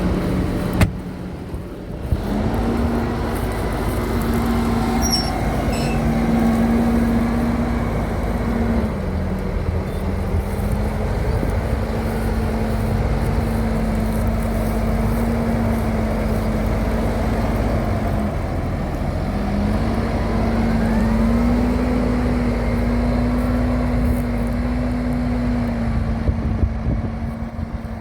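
Tractor engine running steadily, its pitch stepping up a little about two seconds in and again near the twenty-second mark, then easing back.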